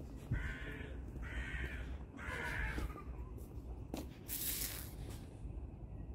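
A bird gives three harsh calls, each about half a second long, in quick succession. A click and a short hiss follow about four seconds in.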